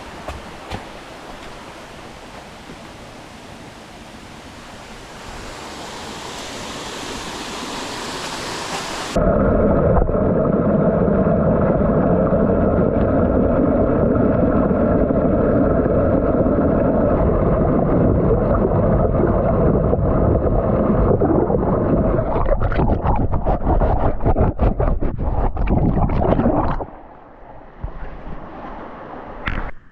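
Loud, steady rushing noise that starts abruptly about nine seconds in, after a softer hiss, with rustles or knocks over it near the end, and drops away suddenly near the end.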